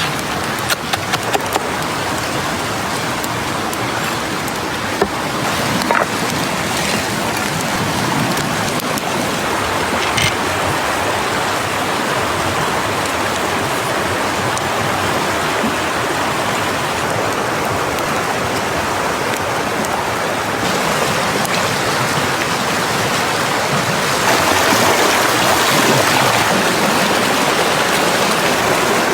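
Steady rushing of water, with a few sharp clicks in the first seconds; it grows a little louder about 24 seconds in.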